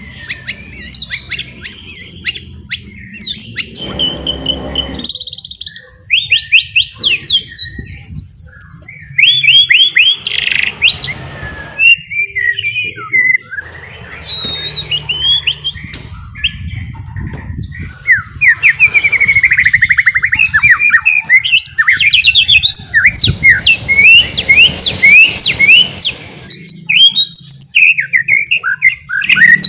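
White-rumped shama (murai batu) singing a loud, varied song of whistled notes, broken by fast runs of rapidly repeated chattering notes, the 'ngeriwik' style.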